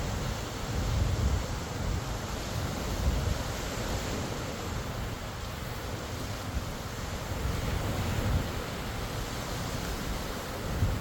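Sea surf washing in as a steady rush, with wind buffeting the microphone in a gusty low rumble.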